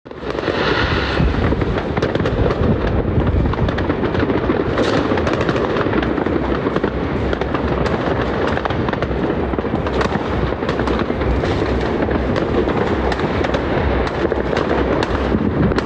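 Fireworks and firecrackers going off in a dense, unbroken barrage: overlapping bangs and crackles, with many sharp cracks standing out.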